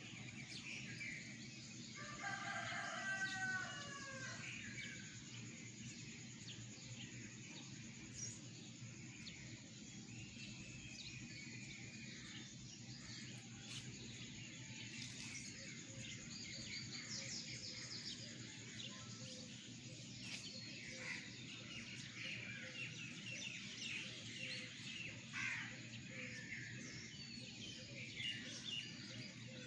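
Birds chirping and calling in a dense chorus. A louder, lower call with a falling pitch comes about two seconds in, over a steady low background hum.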